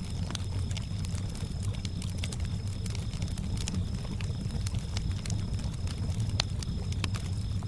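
Campfire crackling, with irregular sharp pops over a steady low rumble, and crickets chirping in a thin, high, continuous trill.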